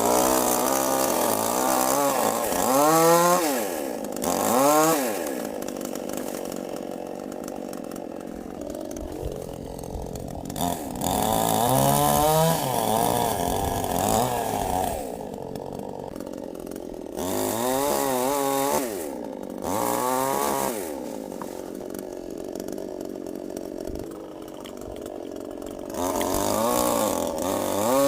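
Chainsaw engine revving up and back down again and again, its pitch rising and falling several times, running lower and steadier between the revs.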